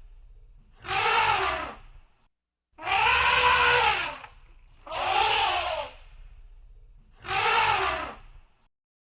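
Elephant trumpeting: four loud, brassy calls of about a second each, repeated at even intervals, each rising and then falling in pitch.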